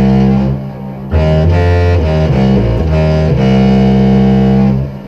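Contrabass clarinet played through fuzz pedals: a buzzy, distorted low tone holding a few long notes with several changes of pitch in the middle. It stops near the end, leaving a quieter reverb tail.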